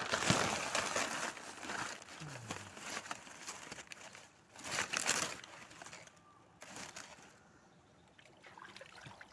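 Rustling and crinkling handling noise close to the microphone, coming in irregular bursts: loudest in the first second and again around five seconds in, then dying down after about six seconds.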